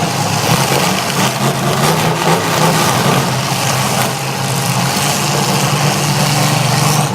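Loud, steady running of demolition-derby truck engines.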